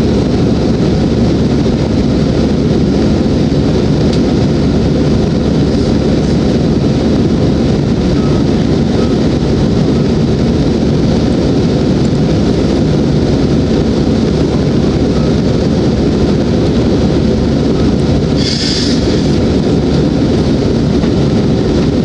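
Steady cabin noise of a jet airliner in flight: a constant low rumble of engines and airflow, with a brief hiss near the end.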